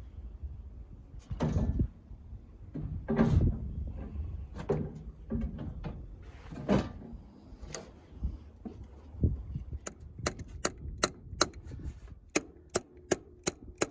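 Metal-on-metal tapping on a tractor battery terminal, tapping the clamp down onto its post adapter, as a steady run of sharp taps about two to three a second that starts about two-thirds of the way in. Before that come a few heavier knocks and handling noises.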